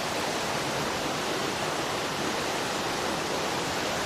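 Mountain river rushing steadily, a constant full roar of flowing water.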